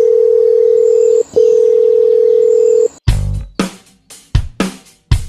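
A loud, steady electronic beep tone held for about a second and a half, broken for an instant, then held again for another second and a half. About three seconds in it gives way to music with sharp drum hits.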